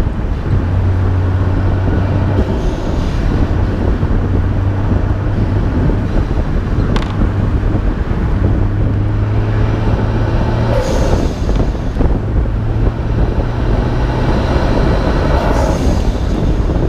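Nissan Skyline R32 GT-R's twin-turbo straight-six running on the move, under a steady rumble of wind and wet-road noise on a hood-mounted microphone. A brief hiss comes about eleven seconds in and again near the end.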